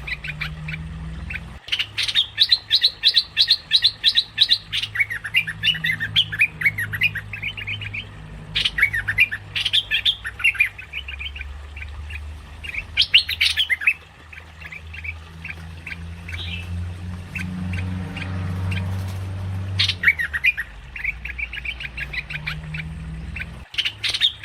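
Merbah lekir bulbul calling in bursts of fast, chattering, squawky notes, with pauses between the bursts, over a steady low hum. The calls are a recording used as a bird lure.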